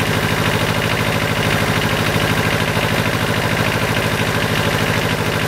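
Heavy rain falling on open water, with an engine running steadily underneath in a fast, even throb.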